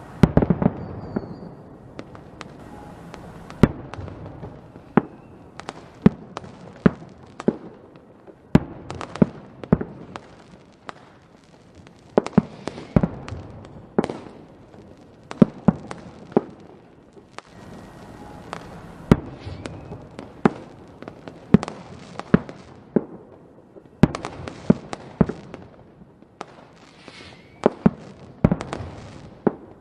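Fireworks going off: a steady succession of sharp bangs, some in quick clusters, with crackling between them.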